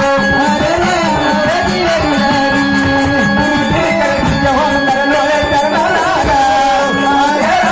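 Live Marathi jagaran gondhal folk music: a sung melody with held instrumental tones over steady hand-drum beats.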